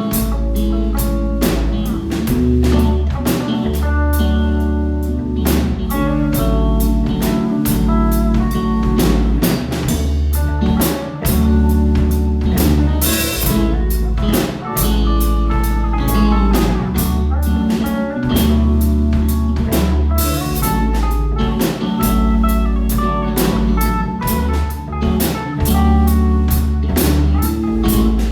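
A rock band playing a song: a drum kit keeps a steady beat under guitar and low bass notes that change every second or two.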